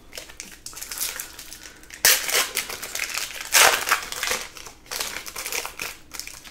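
Foil trading-card pack wrappers crinkling and rustling as packs are handled and opened, with two louder crinkling bursts about two seconds in and a second and a half later.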